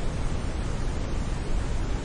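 Synthetic brown noise: a steady, unchanging hiss weighted toward the low end, its higher frequencies much weaker, like a deep rushing river.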